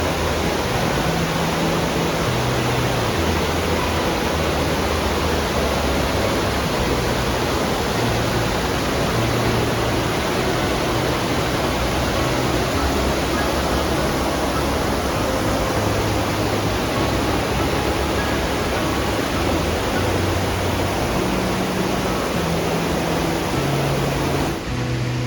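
Steady loud rush of a fast mountain stream, mixed with background music that has a slow bass line. The water cuts off just before the end, and the music carries on alone.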